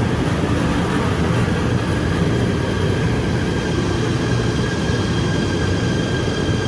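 Electric commuter train running, a steady low rumble with a faint steady whine above it.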